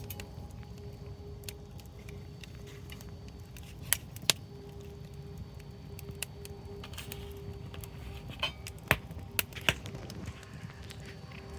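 Wood bonfire burning with a steady low rush, broken by sharp crackling pops: a couple about four seconds in and a quick cluster of three or four near the end.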